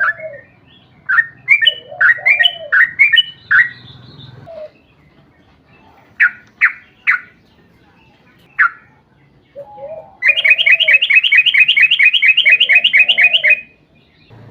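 Yellow-vented bulbul singing: loud, sharp chirping notes in bursts, then from about ten seconds in a long, fast run of repeated notes lasting nearly four seconds. A dove coos low in the background.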